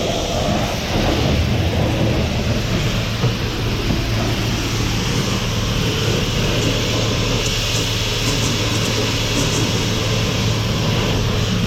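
Self-serve car wash high-pressure rinse wand spraying water, a steady hiss over the low hum of the wash pump.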